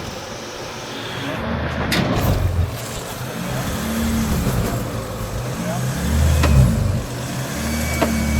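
Jeep Gladiator's engine crawling over rock, the revs swelling and dropping several times under load, with a couple of sharp knocks, about two seconds in and again a little after six seconds in.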